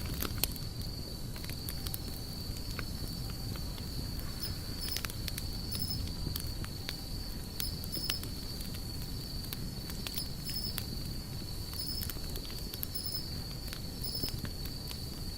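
Campfire burning with a low rumble and occasional sharp crackles and pops, over a steady high insect trill with small repeated chirps.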